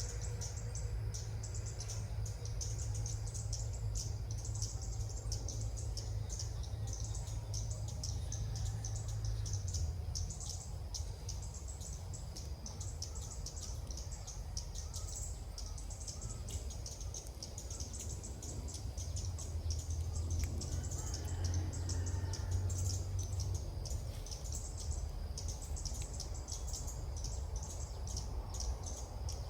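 Birds chirping in a dense, high, twittering chorus over a steady low hum.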